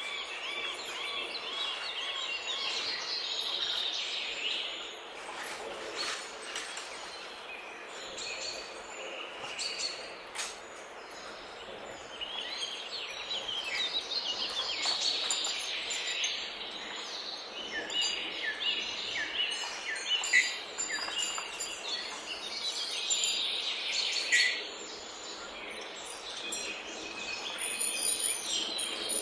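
Many birds chirping and calling over one another in a busy, unbroken chorus of short high chirps and trills over a steady background hiss, with an occasional sharp click.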